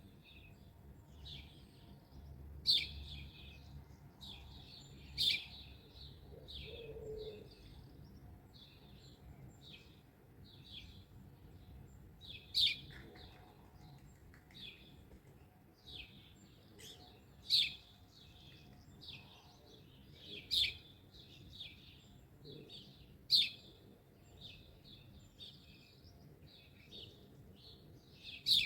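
Several wild songbirds chirping and singing in a morning chorus. A loud, sharp call repeats every few seconds over softer twittering, with one brief low call about seven seconds in.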